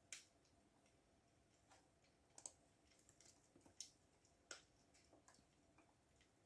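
Faint, unhurried typing on a computer keyboard: about a dozen separate key clicks at irregular intervals, with soft background hiss between them.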